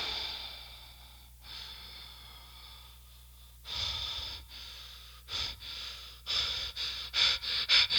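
A person breathing audibly in separate breaths, which come quicker and closer together near the end like panting. A faint low hum runs underneath.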